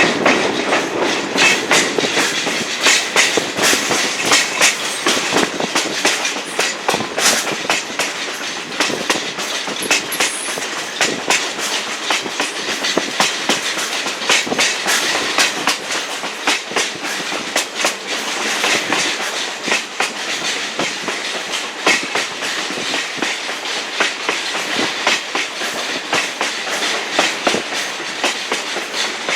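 Railroad passenger coach riding over the track: a steady rumble of the car, with the wheels clicking and clattering irregularly over rail joints.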